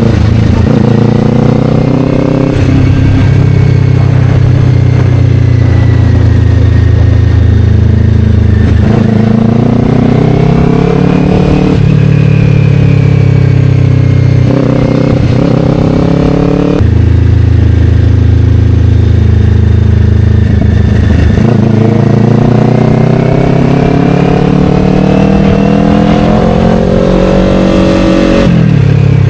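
Kawasaki Ninja 500 parallel-twin engine through an Akrapovic slip-on exhaust, pulling through the gears under way. The engine note climbs in pitch and drops sharply at each shift, about half a dozen times.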